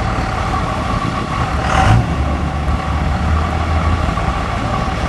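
Dodge diesel pickup engine running steadily, with a brief hiss about two seconds in.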